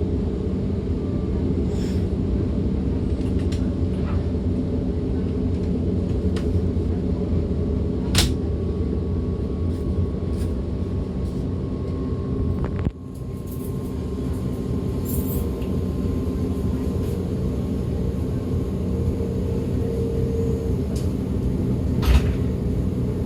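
DB Class 425 electric multiple unit running along the line, heard from on board as a steady rumble with occasional sharp clicks and knocks. About halfway through, the sound drops away abruptly and builds back up over a second or two.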